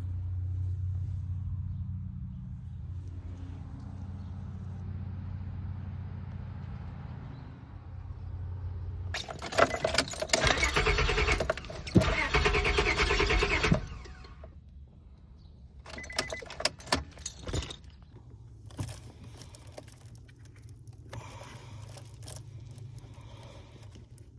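A Honda Accord's engine cranking on its starter for about four and a half seconds without catching, the crank-no-start fault, with keys jangling in the ignition. Before it there is a steady low hum, and after it come scattered short clicks and rattles.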